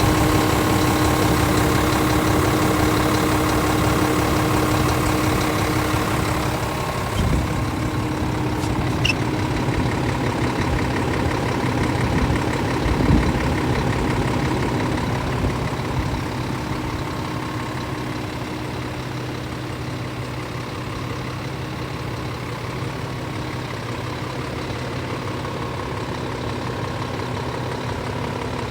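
Scania S500 truck's diesel engine idling steadily, a little quieter after about six seconds, with a few light knocks.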